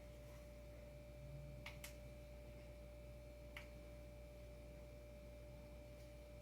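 Near silence: room tone with a faint steady high tone and low hum, and a few faint light clicks.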